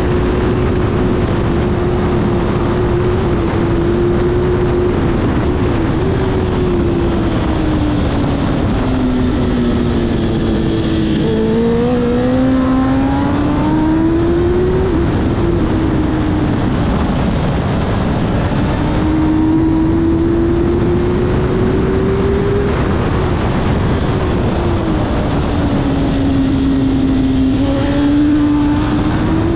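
Kawasaki ZXR750 inline-four race engine at high revs, its note rising and falling as the rider works the throttle. The pitch sags about ten seconds in and again near the end, then climbs. Heavy wind rush over the helmet-mounted microphone.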